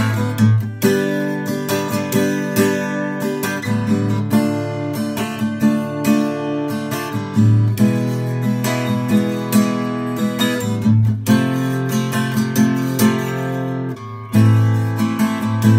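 Instrumental passage of a rock song: acoustic guitar strumming chords in a steady rhythm, with no voice.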